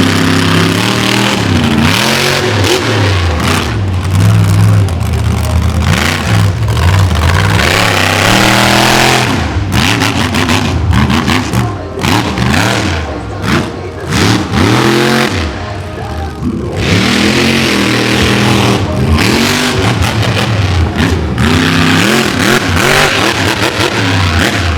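Monster truck engine revving hard over and over, its pitch climbing and falling every second or two as the throttle is opened and lifted, with brief lulls a little past the middle.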